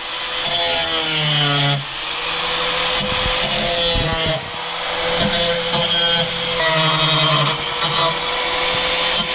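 Angle grinder with an abrasive cut-off wheel running steadily against sheet metal, cutting away marked sections of a car's engine bay, its motor whine held at one pitch with brief letups as the wheel is eased off the metal.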